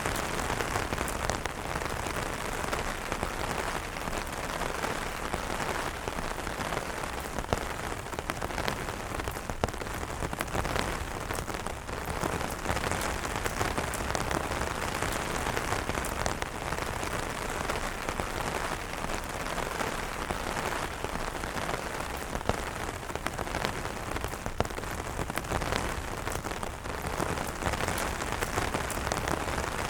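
Steady rain falling on umbrellas, a dense, even wash of drops with many small individual drop hits.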